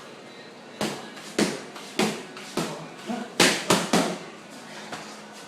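Punches landing one after another, about seven sharp smacks spaced irregularly, with a quick flurry of three a little past the middle.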